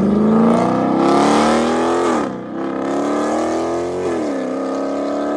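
Dodge Charger Scat Pack's 392 Hemi V8 accelerating hard through the gears, its exhaust note climbing and dropping sharply at two upshifts, about 2 and 4 seconds in. The tone sounds like a car that still has catalytic converters.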